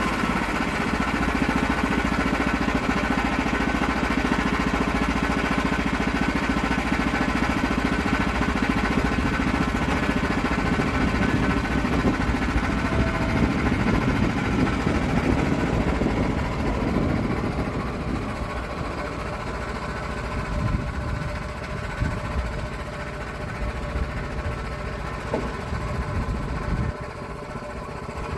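Sawmill engine running steadily, probably cutting a log, then easing to a lower, lighter running about two-thirds of the way through, with a few knocks. It drops again shortly before the end.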